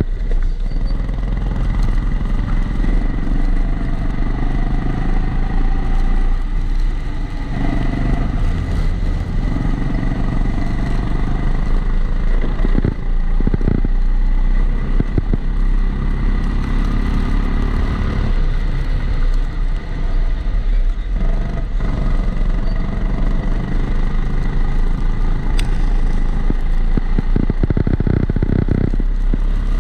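Rental kart engine heard onboard, running continuously and rising and falling in revs as the kart laps the circuit. It is muffled by the camera's protective housing, which adds a steady extra tone.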